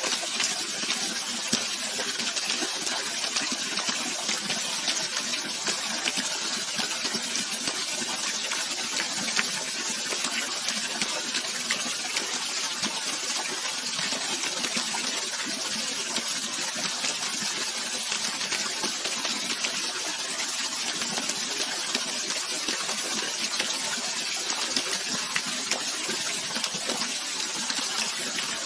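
Flowing water rushing and splashing steadily, a dense hiss sprinkled with small splashes, with no music or voice over it.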